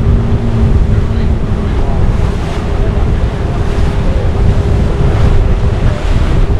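Wind buffeting the camera microphone aboard a moving tour boat, with water rushing along the hull and a faint steady engine hum underneath.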